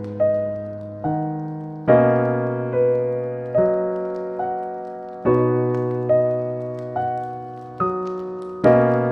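Slow, soft piano music: chords and single notes struck about once a second, each left to fade before the next.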